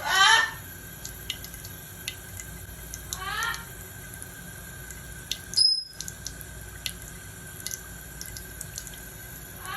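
Water running from a kitchen tap into a sink, a steady hiss with scattered drips and small splashes.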